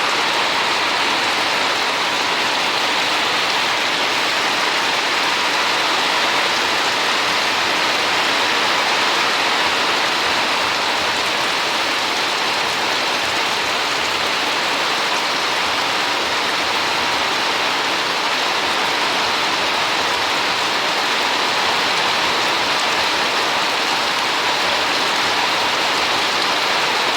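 Steady rain falling, an even unbroken hiss that holds at the same level throughout.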